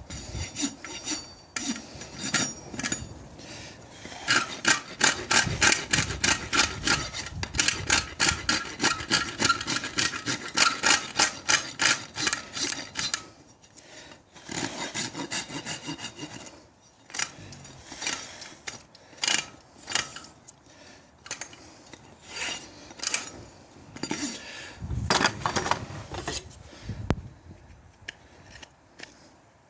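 A farrier's rasp filing a horse's hoof in repeated scraping strokes, a run of about two or three strokes a second through the first half, then slower and more spaced out.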